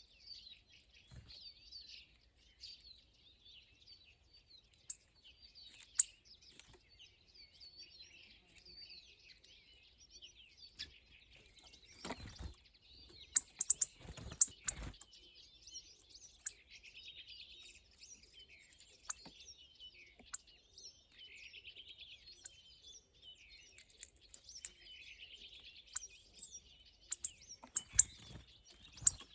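Small birds chirping and twittering continuously. A few short knocks come around the middle and near the end.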